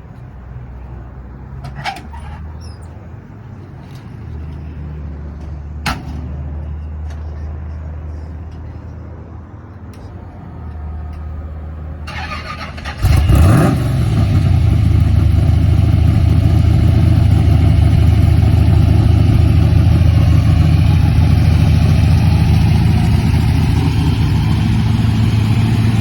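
Engine of a 1965 Chevrolet G10 van, first a low steady rumble with a couple of sharp clicks. About halfway through it comes up sharply with a rising sweep and a big jump in loudness, then runs loud and steady.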